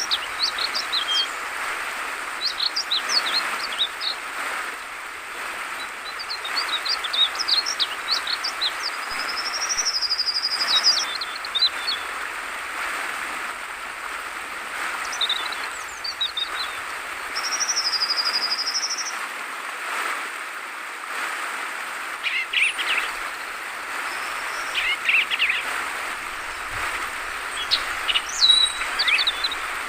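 Yellow-vented bulbul (trucukan) singing in short bursts of quick bubbling notes, with two longer warbling whistles, over the steady rush of flowing water.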